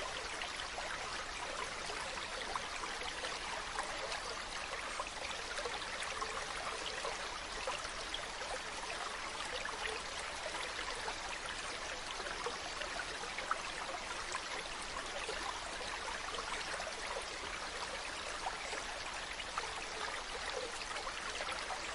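Mountain stream running, a steady babble of water with small splashes here and there.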